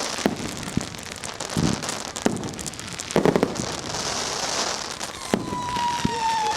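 Fireworks and firecrackers going off: repeated sharp bangs and crackling, with a louder cluster of bangs about halfway through. Near the end a long whistle starts and falls slowly in pitch, as from a whistling firework.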